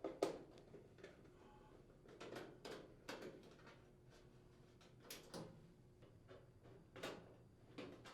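Faint, scattered clicks and light metallic knocks as the mounting screws are unthreaded from the induction range's lower rear access panel, with a few separate taps spread through a quiet background.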